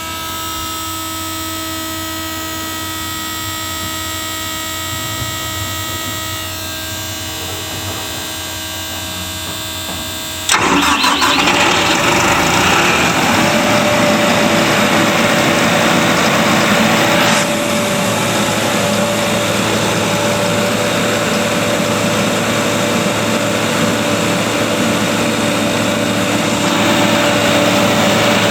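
Kaeser M114 portable compressor's diesel engine running steadily at a low idle. About ten seconds in it suddenly gets much louder, with a strong rushing hiss added, and it stays at that louder run.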